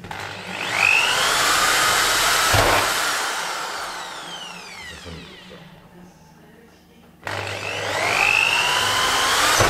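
Power drill boring through a wooden interior door leaf through a drilling template, in two runs. The motor spins up with a rising whine and slowly winds down in the first run, then starts again abruptly about 7 seconds in for a second bore.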